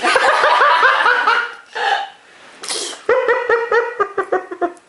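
High-pitched laughter in quick repeated bursts, in two runs, with a short breathy burst between them.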